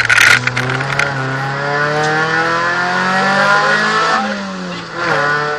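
VW Golf II 16V rally car's four-cylinder 16-valve engine heard from inside the cabin, pulling hard with its pitch rising for about three seconds, dropping sharply at a gear change and then climbing again. A loud clatter of rattling comes in the first second.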